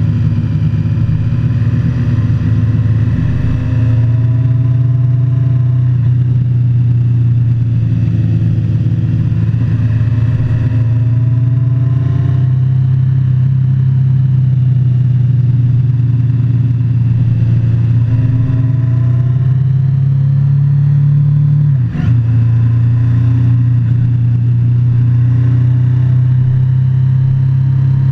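Motorcycle engine running steadily under way, its pitch rising in several slow pulls as the bike accelerates. About three-quarters of the way through, the sound dips sharply for a moment and the pitch drops, then picks up again.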